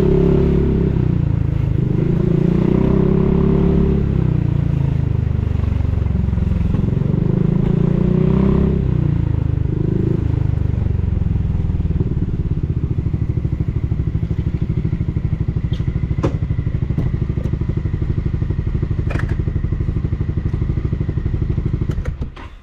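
Honda Forza 350 scooter's single-cylinder engine through a Yoshimura full exhaust system, revved several times, then settling to a steady idle. The engine cuts off just before the end.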